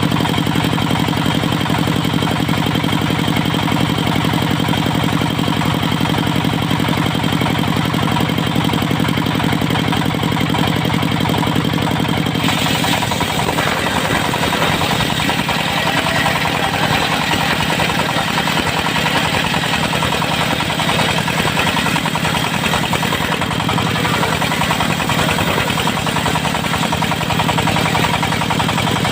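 Diesel engine driving a locally built circular sawmill, running steadily. About twelve seconds in the low engine note drops away and a high rushing noise rises as the blade goes into the teak log.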